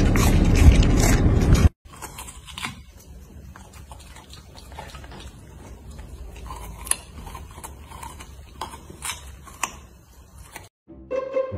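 A golden retriever puppy gnawing on a raw carrot: scattered crunches and clicks over a quiet background. This follows a loud steady noise that cuts off suddenly a little under two seconds in, and a few musical notes start near the end.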